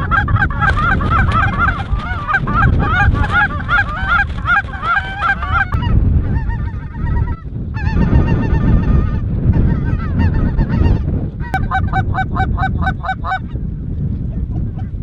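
Geese honking: rapid, repeated calls, continuous for about six seconds and then in four shorter bursts, over a steady low rumble of strong wind on the microphone.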